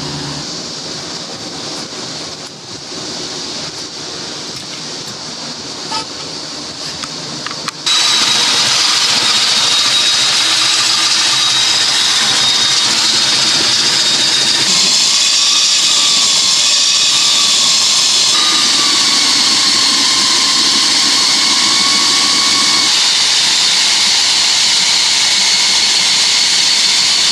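Electric core drill boring through a concrete slab: moderate steady noise at first, then about eight seconds in the drill comes up loud and runs on with a hissing grind and a high whine that wavers in pitch under load.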